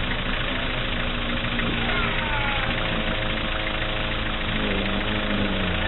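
Four-wheel-drive engine running steadily in deep mud, with a faint voice or two.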